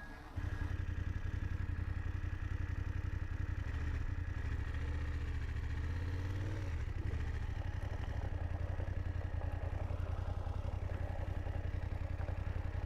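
BMW F750GS motorcycle's parallel-twin engine running steadily at low revs, its note rising briefly about six seconds in.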